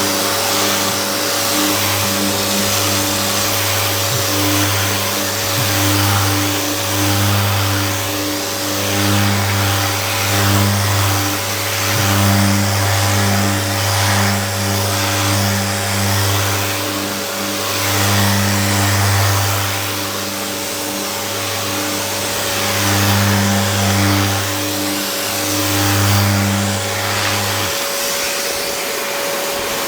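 An electric motor running with a steady whine over a hiss of air, typical of a power tool at work on a car body panel, with background music over it.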